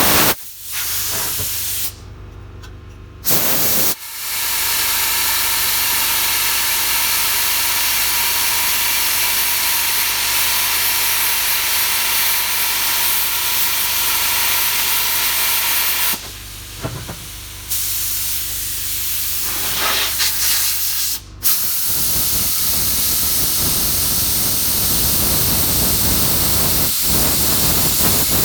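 Plasma cutter cutting thick steel plate, a steady loud hiss of the arc and air jet. It stops for about three seconds near the start, again for a second or so midway, and briefly once more later, each time resuming.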